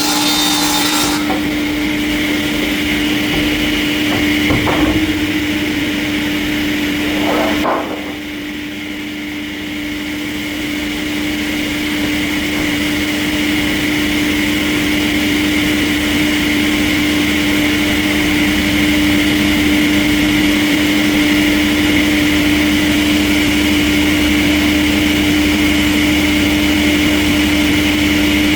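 Industrial sawmill machinery running with a steady hum and a higher whine, a saw working through timber. Two short knocks come about five and seven and a half seconds in, and the sound dips briefly quieter just after.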